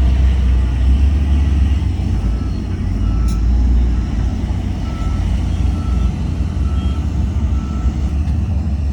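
Heavy diesel earthmoving machinery running with a deep steady rumble, while a reversing alarm sounds a short beep about every three-quarters of a second as a machine backs up.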